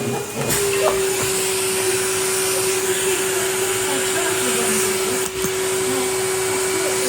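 Henry canister vacuum cleaner running steadily, a constant motor hum over the rush of suction. About half a second in, the rushing gets fuller and the hum settles a little lower, and there is a brief dip about five seconds in.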